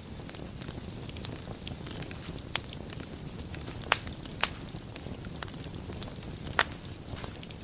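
Wood fire burning in a fireplace: a steady low rumble and hiss of the flames with frequent small crackles and a few sharper pops, the loudest about four seconds in and again near the end.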